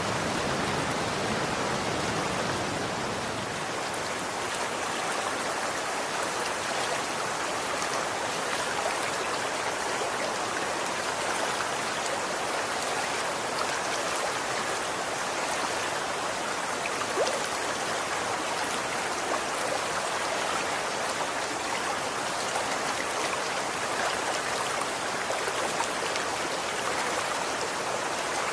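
Running water flowing steadily, an even rush flecked with small splashes and drips, with one slightly louder splash about two-thirds of the way through.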